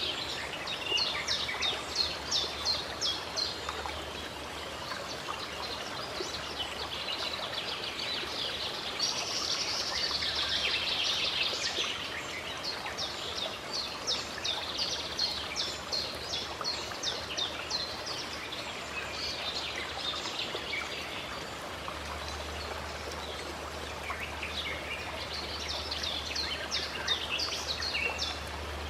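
Small birds singing in three bouts of quick repeated high chirps, over the steady rush of a flowing stream.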